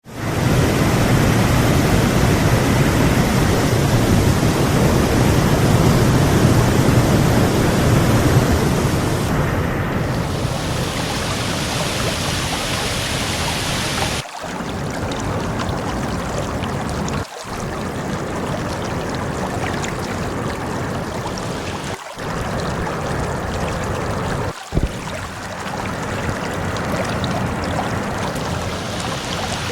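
Waterfall pouring steadily, a continuous rush of falling water. It is louder for the first half, then a little softer, with brief breaks and shifts in level at several points.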